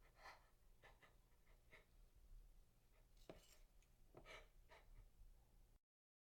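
Near silence: faint room tone with a few soft, short sounds, then cuts to dead silence near the end.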